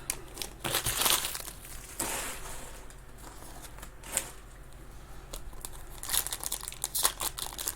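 Plastic packaging crinkling and rustling as trading cards and wrappers are handled, with scattered small clicks and ticks. It is busier near the start and the end, quieter in the middle.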